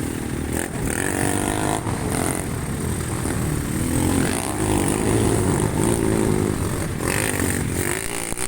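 Racing motorcycle engines revving hard, their pitch rising and falling as the bikes go by.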